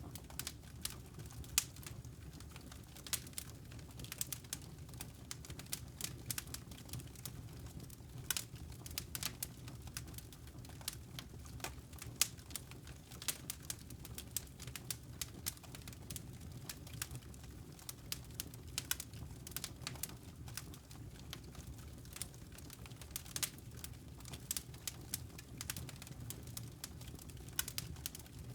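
Wood fire in a fireplace crackling: irregular sharp snaps and pops over a low, steady rumble.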